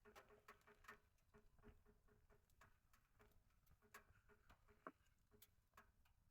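Faint, irregular crackling and popping of firewood burning in a portable wood stove.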